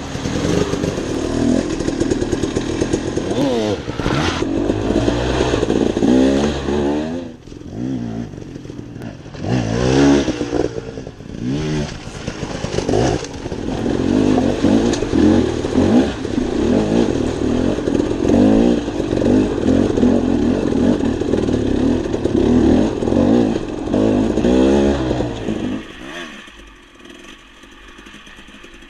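Dirt bike engine revving up and falling off again and again as it is ridden, with a short lull around seven seconds in. Near the end it drops to a much quieter level.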